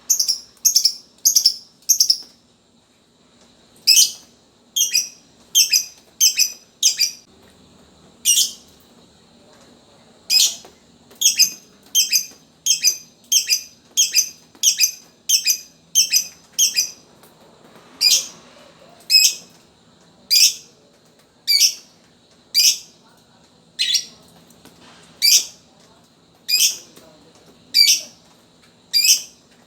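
Lovebird calling with sharp, high chirps, in quick runs of several at first and later about one a second.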